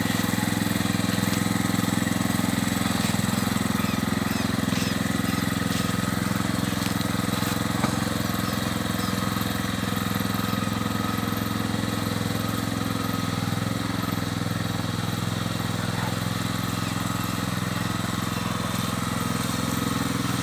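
Small engine of a homemade mini tractor running steadily at a constant speed.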